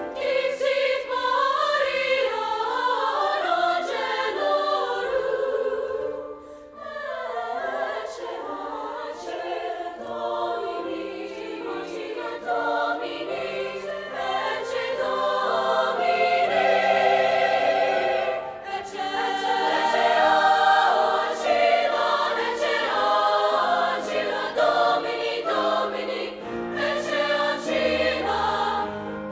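Music with a choir singing, several voices moving in harmony; the sound dips briefly about six seconds in before building again.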